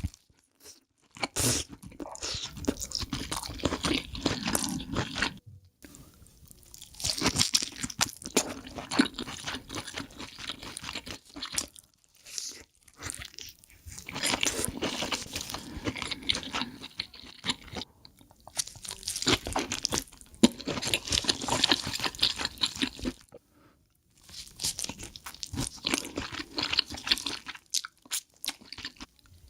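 Close-miked eating of king crab: crunching and chewing in repeated bouts of dense crackles, broken by a few short pauses.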